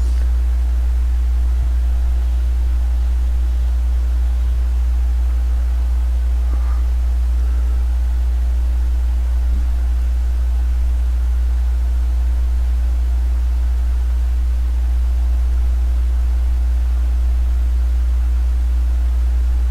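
Steady low hum of the ride, with fainter steady tones above it, as the trike rolls along the trail.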